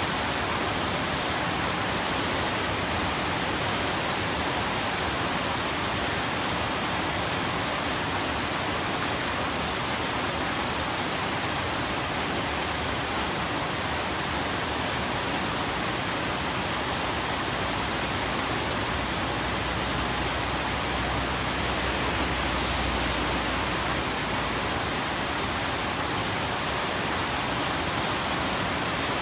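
Steady rain, an even unbroken hiss with no single drops or other sounds standing out.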